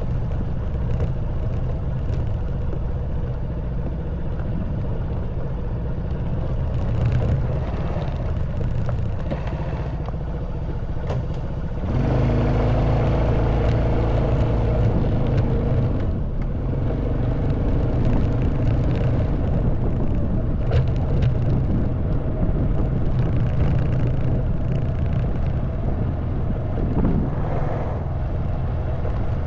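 Honda Wave 110cc single-cylinder four-stroke motorbike engine running while riding, with a low wind rumble on the microphone. About twelve seconds in, the engine note steps up in pitch and gets louder as the throttle opens, and occasional short knocks and rattles come through from the rough road.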